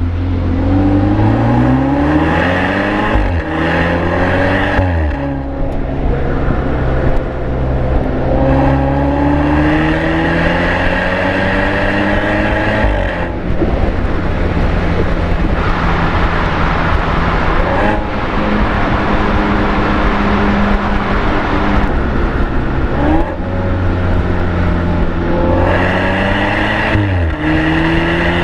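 BMW 420i (F32)'s N20 turbocharged four-cylinder engine through a REMUS aftermarket exhaust, under way. The engine note climbs and drops back sharply several times, with steadier stretches in between.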